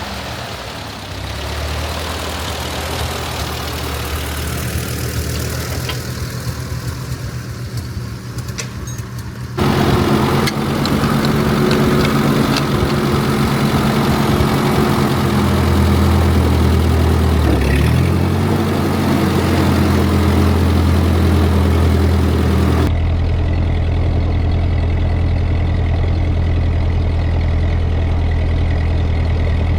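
Tractor engine running steadily, with a brief dip and rise in engine speed about 18 seconds in; the sound changes abruptly twice, about 10 and 23 seconds in.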